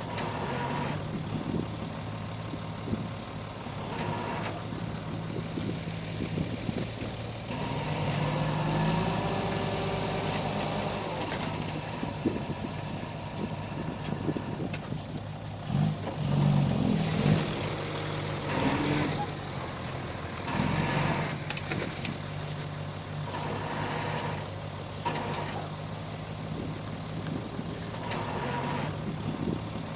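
Komatsu D31P bulldozer's diesel engine running steadily. Its note shifts up and down and swells louder a few times as it works, with a few sharp knocks.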